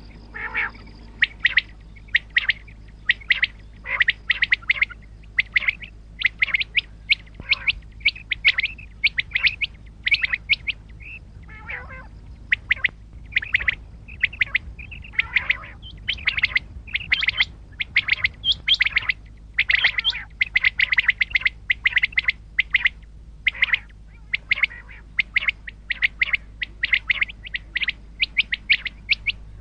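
Common quail calling over and over, short sharp notes in quick clusters with hardly a pause, over a steady low hum.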